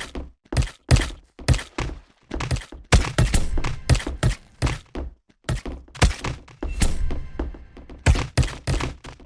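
A run of dull thunks and knocks, irregular, about one or two a second, with a busier stretch of quicker knocks in the middle.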